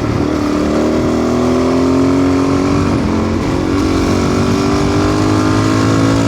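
Adventure motorcycle's engine under way, its note climbing steadily, dropping once about three seconds in as it shifts gear, then climbing again, with wind noise over the microphone.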